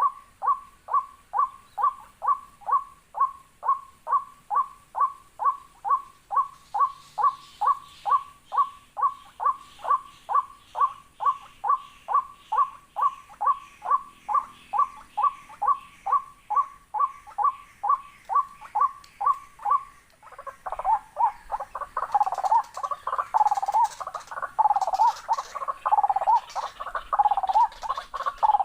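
Waterhen calling: a short note repeated about twice a second, changing about twenty seconds in to louder, more varied calls mixed with clicks.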